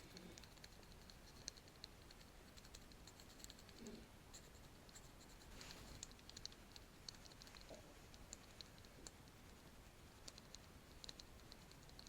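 A paint brush worked against a microphone: faint, irregular light clicks and ticks from the bristles. There is a brief brushing swish about six seconds in.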